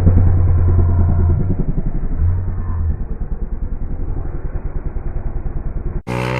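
Dirt bike engine running, loud at first and then easing off and fading, with an even, rapid pulsing beat. It cuts off abruptly near the end.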